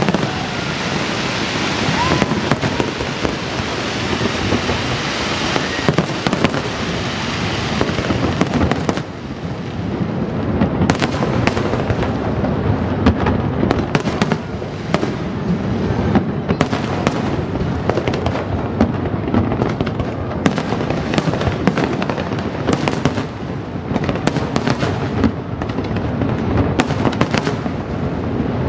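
Aerial fireworks bursting in rapid succession: a continuous wash of booms and crackle, punctuated by many sharp bangs.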